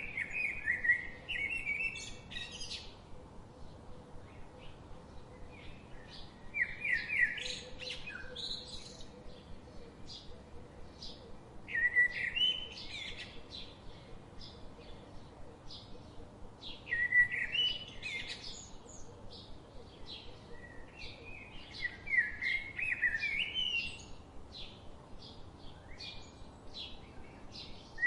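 Songbird singing a short phrase of rapid, high notes about every five seconds, with scattered chirps in between.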